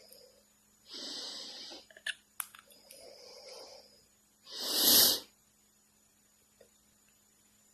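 A pet parrot making a run of breathy huffs with a few small clicks, then one loud, sharp huff about five seconds in.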